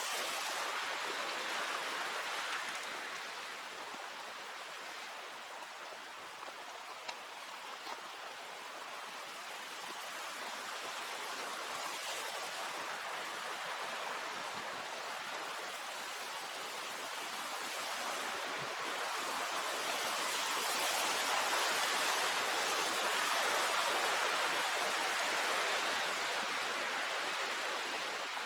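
Rushing water of a mountain creek, a steady hiss that eases a few seconds in and swells louder past the two-thirds mark.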